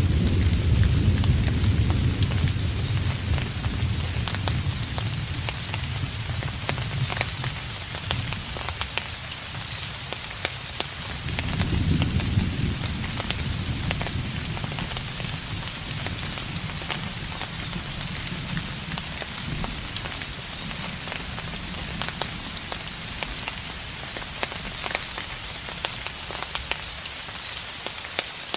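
Steady rain falling with many distinct drops, under distant thunder: a low rumble dying away over the first several seconds, and another that swells about eleven seconds in and fades slowly.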